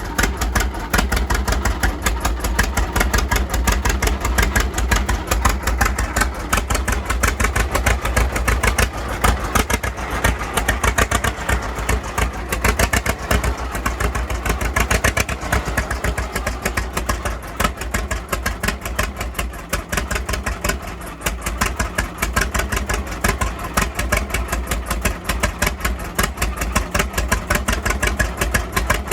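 John Deere Model D's two-cylinder engine running with a steady, rapid popping exhaust beat.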